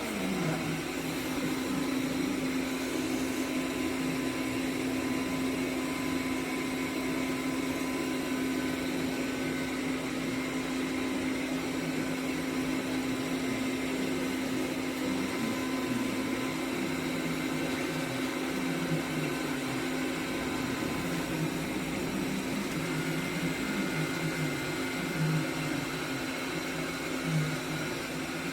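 Robot vacuum cleaner running, its motor giving a steady hum.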